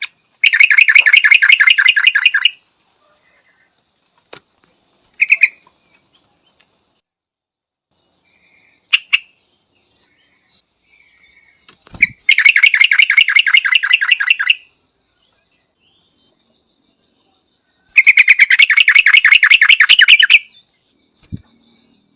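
Yellow-vented bulbul calling: three bursts of rapid, evenly repeated chattering notes, each about two seconds long, with a few short single calls between them.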